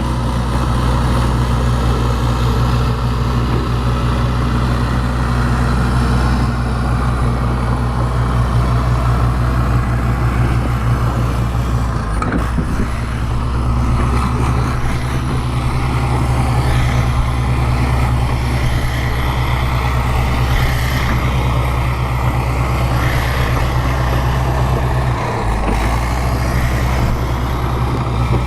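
Bulldozer's diesel engine running steadily under work, its note briefly wavering about twelve seconds in and again near the end.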